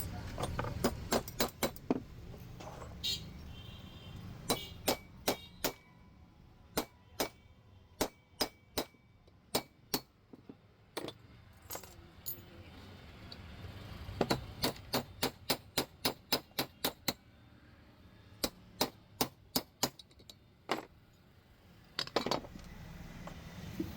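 Sharp metallic tapping in quick runs of several strikes a second, with short pauses between runs.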